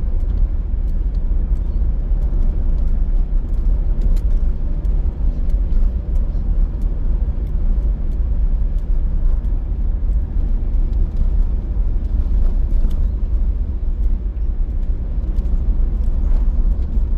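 Car driving along a road: a steady low rumble of engine and tyre noise, with scattered faint ticks.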